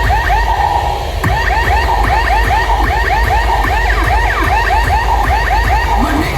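Siren-style DJ sound effect played loud through a sound system: fast repeating rising electronic chirps, about five a second, over a steady deep bass, with a short break about a second in.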